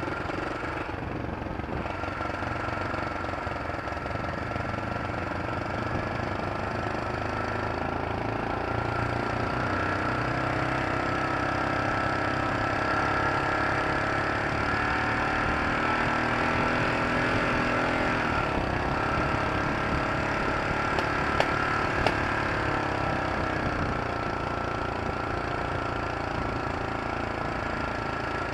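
A vehicle engine running continuously, with a steady high whine over it. The engine note climbs and gets louder through the middle and drops about eighteen seconds in, with two sharp clicks a few seconds later.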